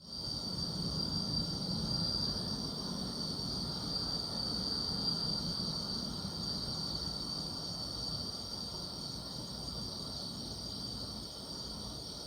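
Chorus of crickets and other grass insects: a steady, unbroken high-pitched chirring, with a faint low rumble beneath.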